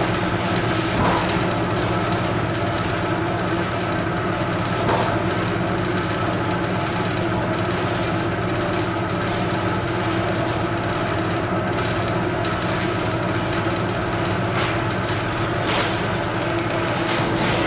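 Suburban electric train running, heard from inside the carriage: a steady rumble and hum with a few sharp clicks along the way.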